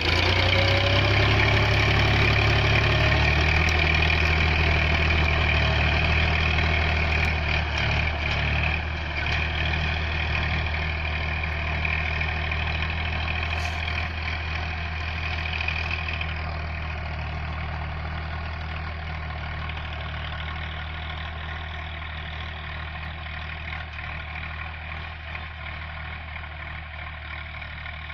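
Massey Ferguson tractor engine running steadily at a low, even speed, gradually getting quieter.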